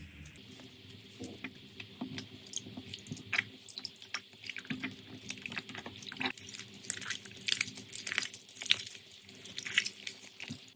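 Slime being squished and worked by hand: a run of wet clicks and pops that grows denser and louder through the second half, over a faint steady hum.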